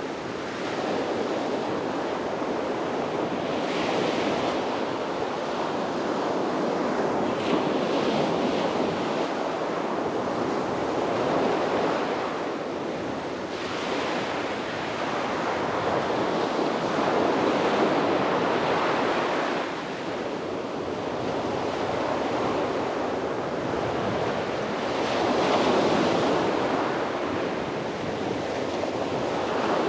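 Sea waves breaking and washing up on a beach, a steady surf rush that swells and ebbs every few seconds, with some wind on the microphone.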